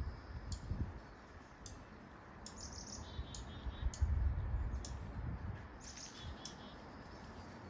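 Small birds chirping: short high chirps about once a second and a few brief twittering trills, over a low rumble of wind or handling on the microphone.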